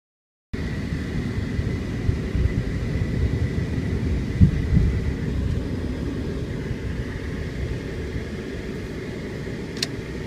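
Low rumble of thunder that starts abruptly, swells to its loudest about halfway through, then slowly fades, with a single sharp click near the end.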